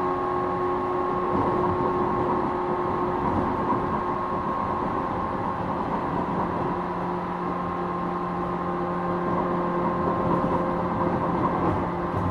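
Running noise of a 455-series express-type electric train, heard inside its motor car: a steady rumble with the whine of the MT54 traction motors and gears holding a constant pitch, so the train is at a steady speed. A lower hum joins about seven seconds in.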